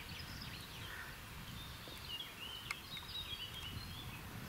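A songbird warbling in short, wavering high chirps for about two seconds from roughly two seconds in, over a steady low rumble, with a single sharp click near the middle.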